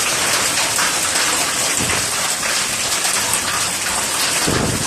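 Hailstorm with heavy rain: a loud, steady hiss of falling water, thick with sharp ticks of hail striking surfaces. A short low thud a little under two seconds in, and a stronger one near the end.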